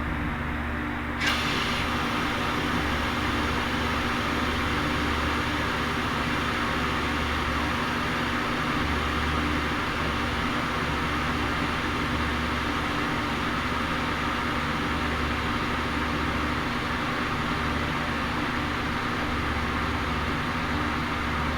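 A steady motor hum, joined suddenly about a second in by a loud hiss that then runs on evenly.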